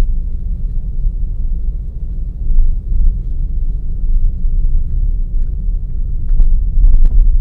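Car driving along a forest road, heard from an onboard camera: a steady low rumble of engine and tyres. A few sharp knocks come near the end.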